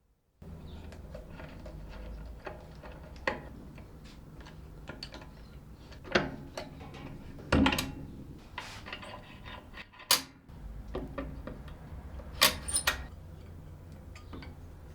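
Small metal parts and tools handled on a workbench: scattered clicks, clinks and knocks over a low steady hum, with a handful of sharper knocks standing out.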